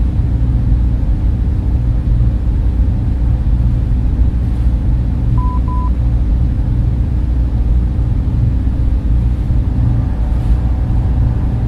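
Server room cooling fans running steadily, a dense, even noise that is heaviest in the low end. Two short beeps sound one after the other about halfway through.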